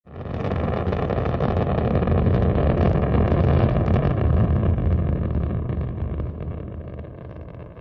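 Rocket launch roar: a deep, noisy rumble that starts abruptly, builds for a few seconds, then slowly fades.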